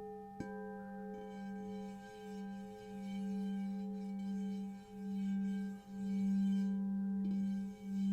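Singing bowls. A low bowl keeps up a sustained, pulsing hum that swells louder with a few brief dips. A second bowl is struck about half a second in and rings on with higher tones above it.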